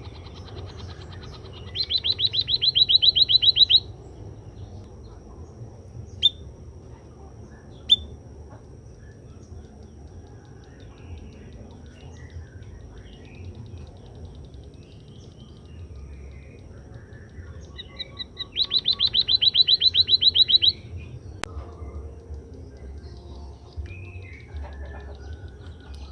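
Emprit kaji (white-headed munia) singing: two bouts of a fast trill of about seven notes a second, each lasting about two seconds and growing louder, one near the start and one about two-thirds through. Two single sharp chirps fall in between.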